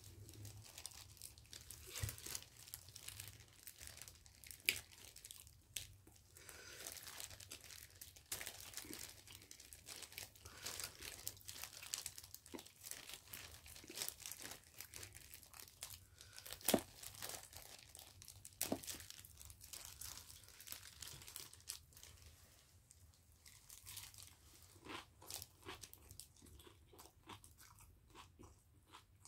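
Close-up eating sounds: a person chewing food with many small wet mouth clicks, including sharper ones about five seconds in and past halfway, along with the rustle of disposable plastic gloves as she handles boiled sweet potato.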